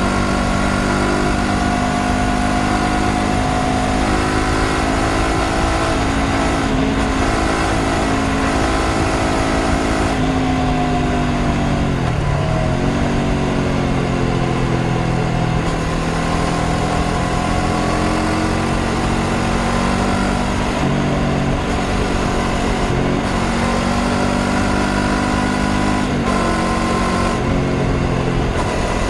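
Honda CBR500R's parallel-twin engine running under way, its note rising and falling with the throttle. About twelve seconds in the pitch drops sharply and climbs again, and the note breaks off briefly several times.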